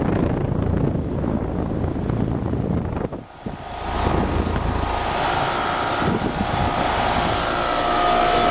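Rheem Classic 4-ton air conditioner condensing unit running: a steady whoosh from its two-bladed condenser fan over the hum of its Copeland Scroll compressor. The sound dips briefly about three seconds in, and steady hum tones come up in the second half.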